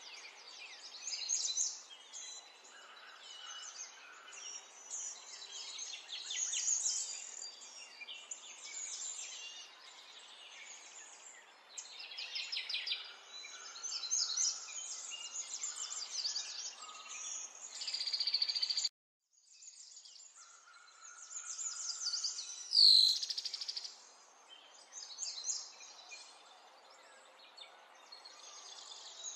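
Many small birds chirping and singing together in a dense, continuous chorus. There is a brief dead gap about two-thirds of the way through, and a few seconds later comes one loud sweeping call.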